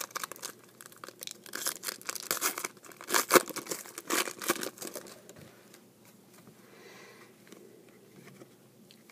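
A trading-card pack wrapper being torn open and crinkled, with a run of sharp crackles over the first five seconds, then only faint handling.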